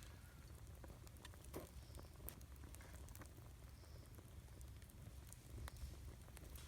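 Campfire burning quietly, with occasional faint crackles and pops of wood.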